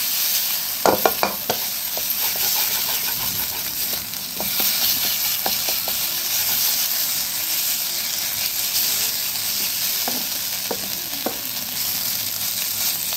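Masala with fenugreek leaves sizzling steadily in oil in a frying pan, stirred and scraped round with a wooden spatula, with sharp knocks of the spatula against the pan about a second in and again near the end. The masala is being fried down and is nearly done.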